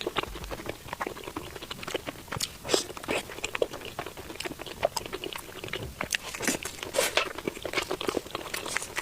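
Close-up eating of deep-fried skewer food, most likely fried banana: repeated crunchy bites and chewing of a crisp fried coating, in irregular crackles.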